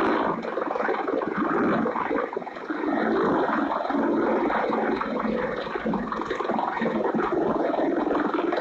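Churning, rushing water with steady rough noise.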